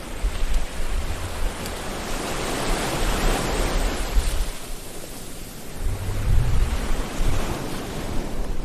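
Sea waves breaking and washing on a shore, a steady roar that swells about three seconds in and again near the end, with a deep rumble underneath.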